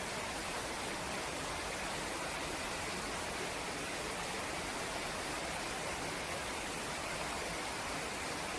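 Steady rushing of a nearby river, an even wash of water noise with no distinct events.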